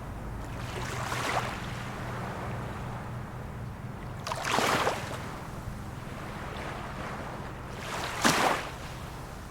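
Small waves lapping and splashing at the shoreline of a calm sea, breaking in short bursts every few seconds, the two clearest about four seconds apart. A faint steady low hum runs underneath.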